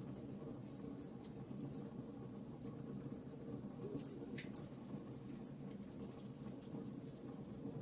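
Wood fire burning in a fireplace: a steady low rumble of flame with many small, irregular crackles and pops from the burning logs.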